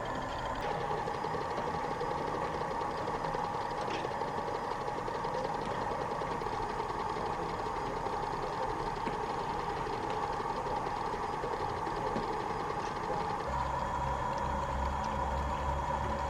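A steady mechanical hum, with a low engine rumble coming in about thirteen seconds in.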